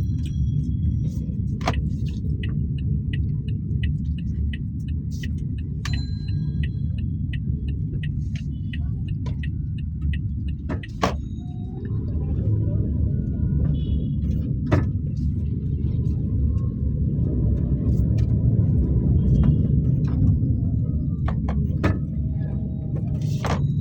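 Toyota Axio being driven in city traffic: steady low engine and road rumble heard from inside the car. Scattered faint clicks and short high tones come from the street, and a run of light, regular ticks lasts several seconds early on.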